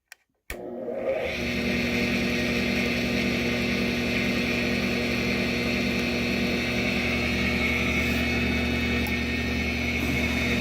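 Drill press switched on with a click, its electric motor spinning up over about a second and then running steadily with a hum and a high whine, turning the arbor to check its runout after the arbor was knocked back straight.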